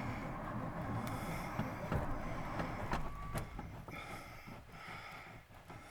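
Starter cranking the cold 312 Y-block V8 of a 1957 Monarch over and over without it catching. The cranking fades out near the end.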